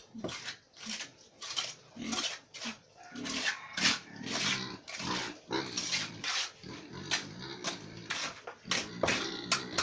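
Pigs grunting and squealing in short, irregular bursts.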